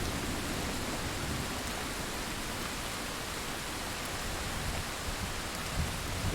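Thunderstorm rain falling steadily, an even hiss, in a lull between thunderclaps, with a faint low rumble of thunder swelling again near the end.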